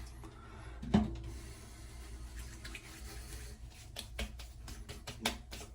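Hands rubbing splash aftershave into freshly shaved skin: soft rubbing with a single knock about a second in, then a quick run of light pats or taps near the end.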